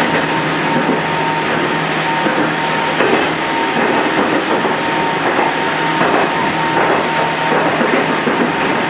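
Toyama Chiho Railway 14760-series electric train running along the line, heard from inside the front car: a steady rumble of wheels on rail with a constant thin whine and a few faint knocks.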